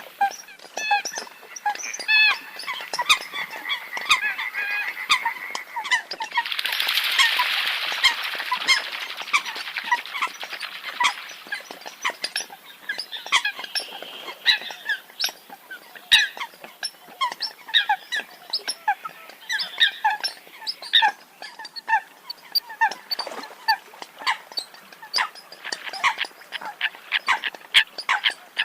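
Eurasian coots calling: a dense run of short, sharp, honking notes, with a brief hiss-like stretch about a quarter of the way in.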